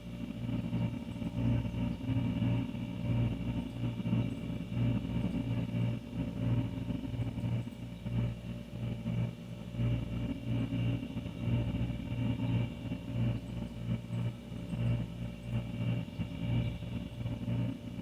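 An old refrigerator running: a steady low hum that wavers slightly in level, with a faint high whine above it.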